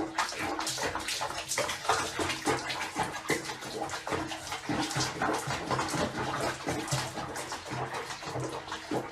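Water splashing and sloshing in quick, irregular splashes.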